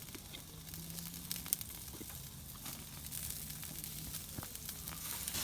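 Small campfire crackling faintly, with scattered light clicks and pops.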